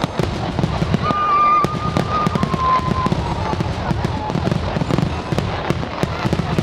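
Festival fireworks: a dense, fast crackle of firecrackers going off, many sharp cracks close together. A held high tone, like a shout or whistle from the crowd, sounds about a second in and drops slightly before fading.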